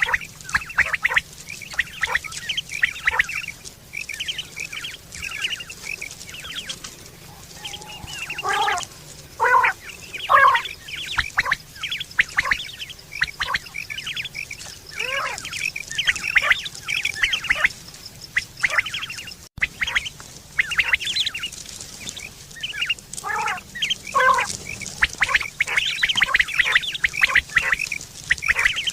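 Quail calling: a dense run of short, sharp calls repeated rapidly and overlapping, as from several birds at once. A brief dropout about two-thirds of the way through breaks it for an instant.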